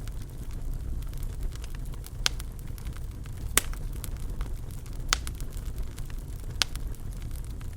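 Wood fire burning in a fireplace: a steady low rumble with sharp crackles and pops every second or so, the loudest about three and a half seconds in.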